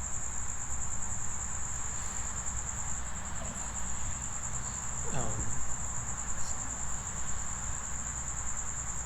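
Crickets trilling steadily in one high-pitched tone over a faint background hiss.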